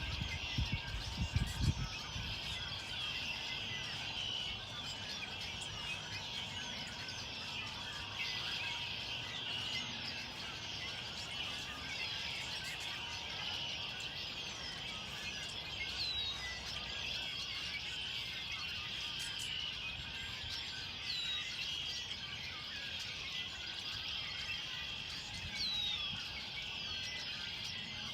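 A dense chorus of many small birds chirping at once, with a few clearer down-slurred calls standing out now and then. A few low thumps come in the first two seconds.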